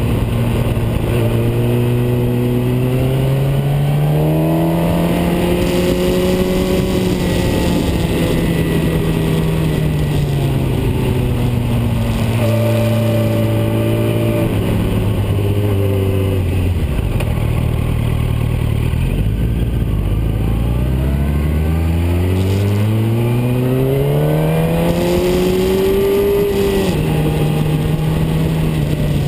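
Car engine driving hard on twisting roads, the revs climbing, easing off and stepping down with gear changes. The revs rise twice and fall between, with another gear change near the end.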